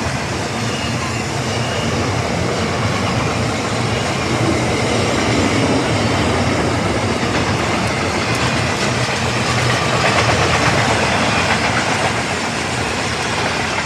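Container freight train rolling past, its wagons' wheels clattering steadily over the rails.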